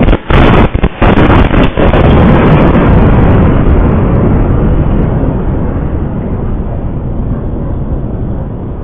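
Explosion at a military ammunition depot: a sudden blast with several sharp cracks in the first two seconds, then a long rolling rumble that slowly fades.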